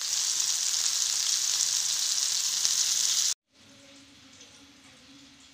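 Tomato slices sizzling in hot oil on a flat pan, a loud steady sizzle that cuts off abruptly about three seconds in. A much quieter low hum follows.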